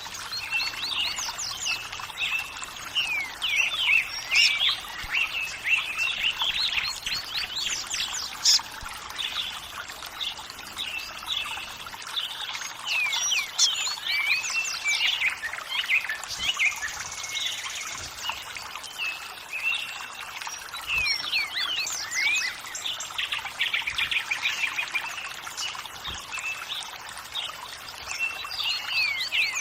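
Many small birds chirping and calling in quick, overlapping notes over a steady trickle of running water.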